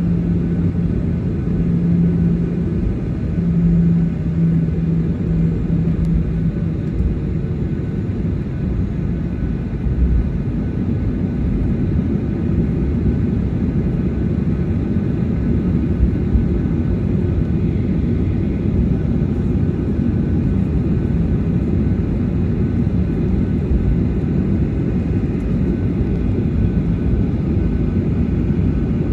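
Cabin noise of a Boeing 737-800 taxiing, with its CFM56 engines at low taxi power giving a steady low rumble. A low droning tone sits over it for the first several seconds, then fades out.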